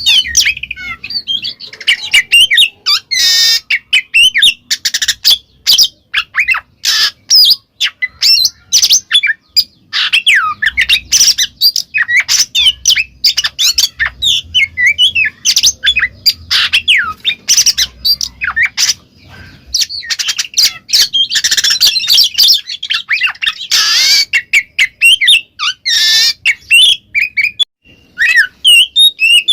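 Oriental magpie-robin singing loudly and without pause: a fast, varied run of gliding whistles, squeaky notes and short harsh chatters. This is the full open song known as 'ngeplong'.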